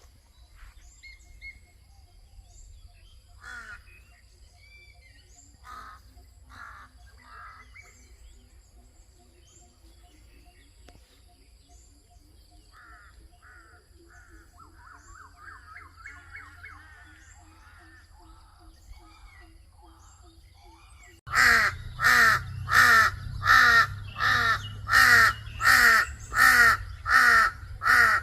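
Birds chirping faintly and scattered, then, about three quarters of the way in, a loud harsh call begins, repeated about twice a second and cawing like a crow.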